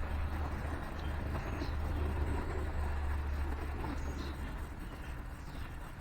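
A road vehicle passing by, its low engine rumble loudest about two seconds in and fading away near the end. A few faint bird chirps sound over it.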